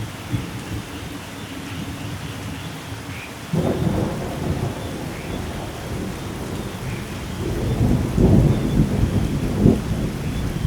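Steady heavy rain with thunder: a low roll of thunder starts suddenly about a third of the way in and swells louder near the end.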